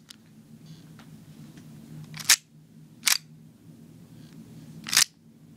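Slide of a WE M1911A1 gas blowback airsoft pistol clacking as the gun is cycled to feed BBs. There are three sharp clacks: two about a second apart, then a third about two seconds later.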